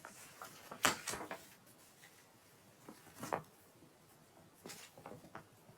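Faint, scattered rustles and clicks of a book being handled, such as pages being turned. The loudest comes about a second in, with a few smaller ones later.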